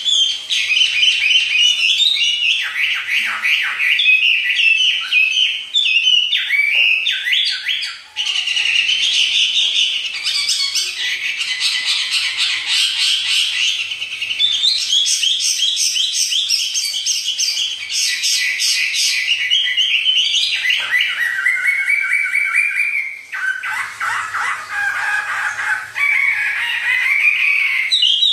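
A songbird singing a long, loud, fast and varied song of chirps, trills and whistled phrases, with brief pauses between phrases.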